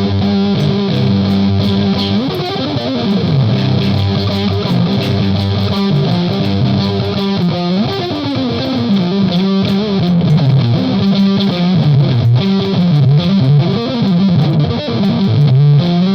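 Electric guitar played through an EarthQuaker Devices Palisades overdrive pedal at high gain with its boost on and no noise gate, giving a thick distorted tone. Sustained low notes with repeated bends and slides.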